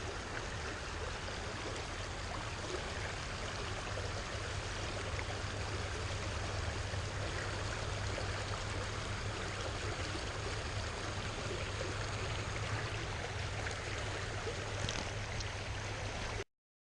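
Steady rush of creek water flowing over rocks, cutting off suddenly near the end.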